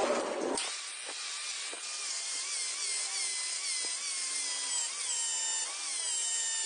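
High-pitched whine of a small electric power tool, such as a rotary tool or drill, starting about half a second in. Its pitch dips briefly and recovers again and again as it bites into the work.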